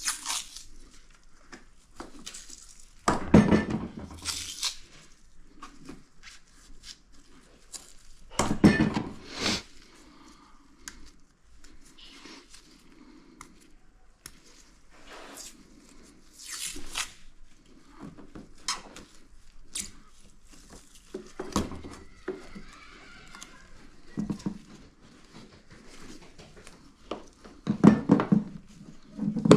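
Handling noises from repair work: scattered knocks, clinks and rustles of tools and parts, with louder bumps about three seconds in, around nine seconds in and near the end.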